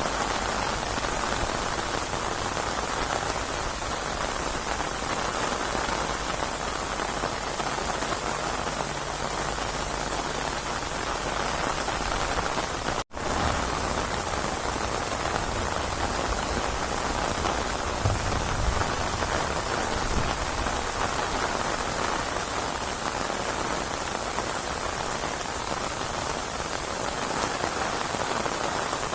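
Steady, dense rain falling on surfaces, an even hiss of many drops. About halfway through it breaks off for an instant, then carries on with a little more low rumble underneath.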